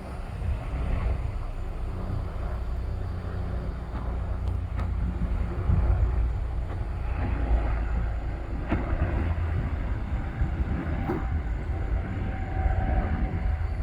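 Bell 407 helicopter flying by: the low, steady drone of its four-blade main rotor and turbine engine, swelling a little toward the middle.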